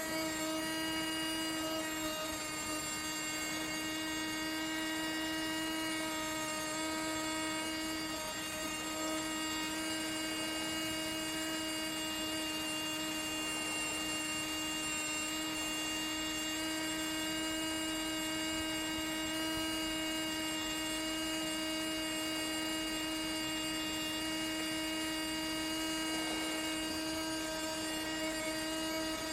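Steady electrical hum at a constant pitch, unchanging throughout.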